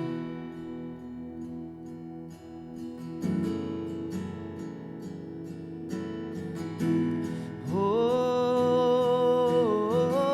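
Acoustic guitar strummed in steady chords with no singing at first; about three-quarters of the way through, a single held sung note comes in over it and is the loudest part.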